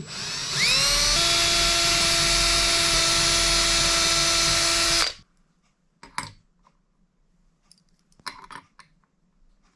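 Power drill boring pilot holes in wood for hinge screws: the motor whines up to speed over about a second, runs steadily for about four seconds, then stops. A few faint knocks follow.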